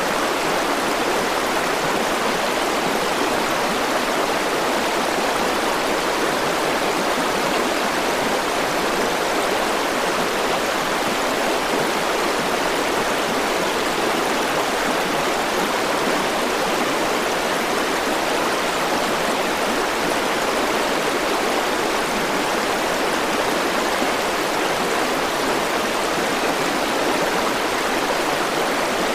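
River water flowing steadily over rocks, a continuous even rushing with no change in level.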